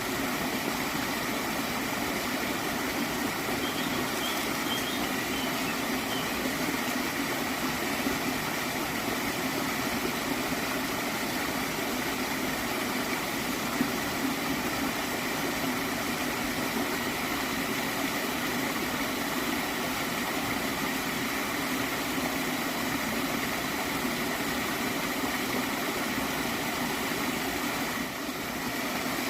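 Water in a small stream flowing and gurgling steadily, dipping slightly for a moment near the end.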